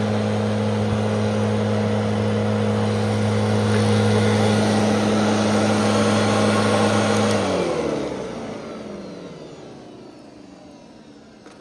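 Fantom Fury 10-amp upright vacuum cleaner running with a steady hum, then switched off about seven and a half seconds in, its motor winding down with a falling pitch and fading out.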